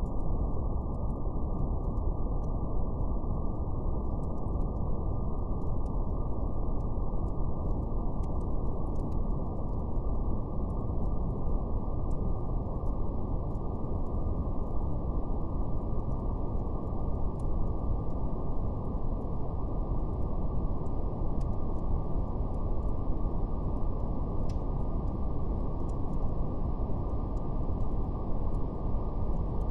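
Steady brown noise, a deep, even rumbling hiss with nothing above the low and middle range, with a faint crackle of a wood fire ticking irregularly over it.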